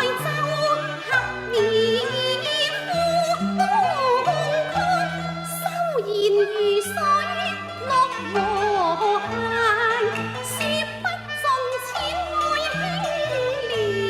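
Cantonese opera singing: a solo voice carrying a slow, wavering, heavily ornamented melody over sustained instrumental accompaniment, with a few sharp percussion strikes.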